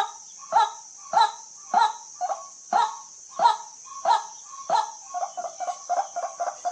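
White-breasted waterhen calling: a loud 'kwak' note repeated about every two-thirds of a second, breaking into a quicker run of shorter, lower notes near the end. A steady high hiss runs underneath.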